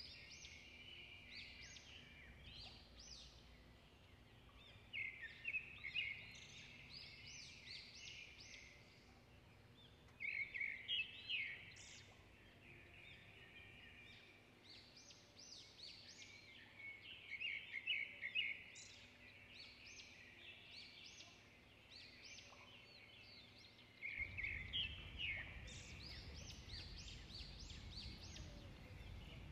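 Small birds chirping and singing, with quick runs of high trilled notes coming in clusters every few seconds. A low rumble comes in near the end.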